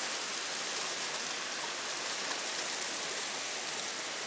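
Heavy rain pouring steadily, heard from indoors through a window.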